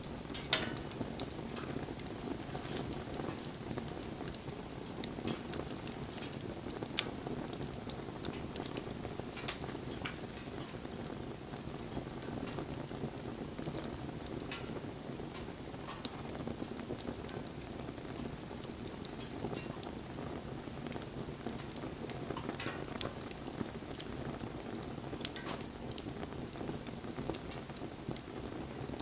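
Wood bonfire burning: a steady low rush of flame with frequent sharp crackles and pops from the burning wood, the loudest pop about half a second in.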